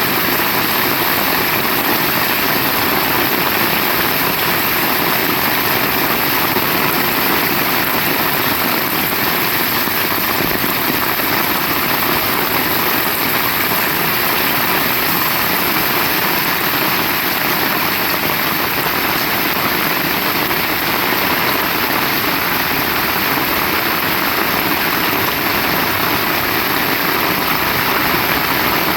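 Heavy rain falling, a steady dense hiss with no let-up and no thunderclap.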